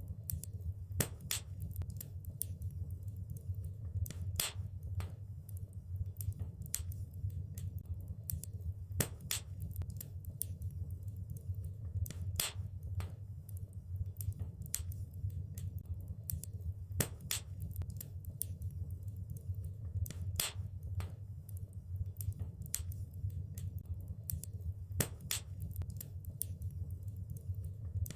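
Wood fire crackling in a fireplace: a steady low rumble of burning with frequent irregular sharp snaps and pops, a louder pop every few seconds.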